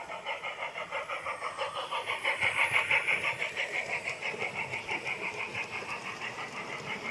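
Model railway locomotive running through sidings, its motor and wheels giving a rapid, even rhythmic clatter on the track. It grows louder to a peak about three seconds in as it passes closest, then fades as it moves away.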